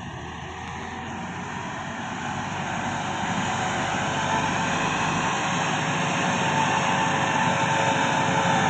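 Massey Ferguson 385 tractor's diesel engine running steadily, growing louder throughout.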